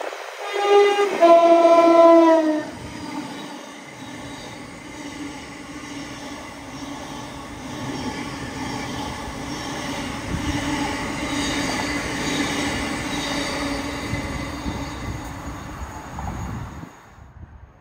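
A train's two-tone horn sounds a high note, then a longer lower note, followed by the steady running noise of the train going through the station, which drops off abruptly near the end.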